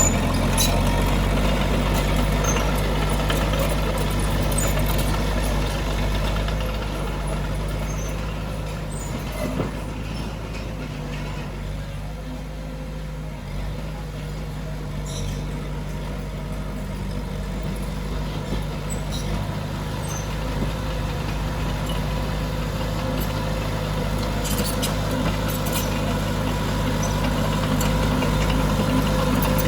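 Heavy diesel engine of earthmoving machinery running steadily. It grows quieter around the middle and louder again toward the end.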